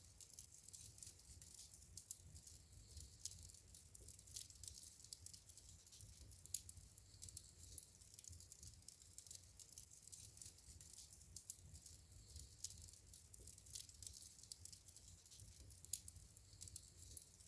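Wood fire in a fireplace crackling faintly and steadily, with frequent small snaps and a few sharper pops, over a low rumble from the flames.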